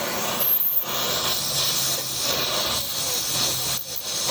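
Steady, loud hissing noise, dipping briefly about three-quarters of a second in and again near the end.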